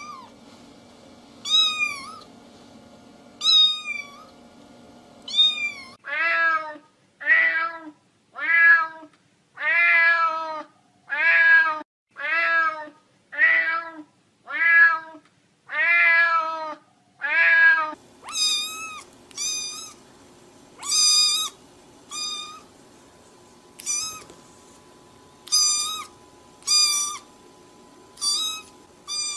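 Cat meowing over and over: a few high meows about two seconds apart, then a steady run of lower meows about one a second, then high meows again near the end, like several meow clips strung together.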